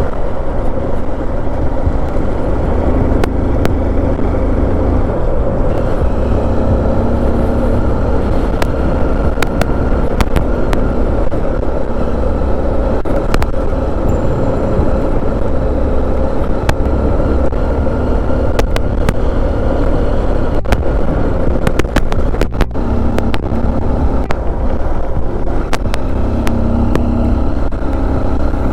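Motorcycle engine running steadily under way, mixed with road and wind noise. Scattered sharp clicks and ticks run through it.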